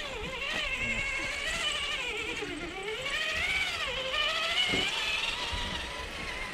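Electric motors and gear drives of scale RC crawler trucks whining, the pitch rising and falling as the throttle is worked.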